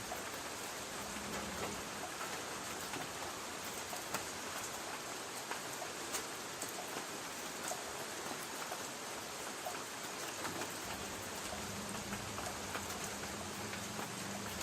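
Light rain pattering on a tin roof: a steady hiss of rain with many scattered, irregular drop ticks on the metal.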